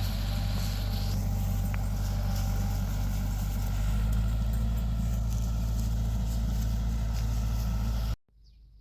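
An engine running steadily at a low, even speed, cut off abruptly near the end.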